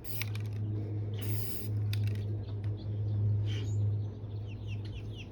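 Aerosol spray paint can spraying in short bursts: a quick hiss right at the start and a longer half-second spray about a second in, over a steady low hum.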